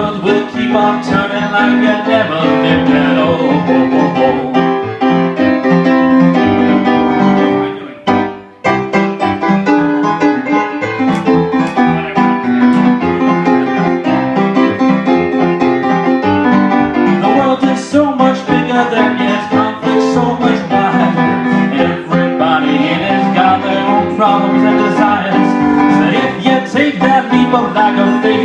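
Live solo performance of a song: keyboard playing a continuous passage of held and moving chords between sung lines. It breaks off briefly about a third of the way through, then resumes.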